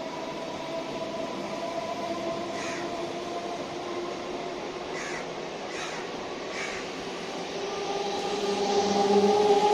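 Electric suburban local train running, a steady whine over rumbling noise, growing louder near the end. A crow caws four times in the middle.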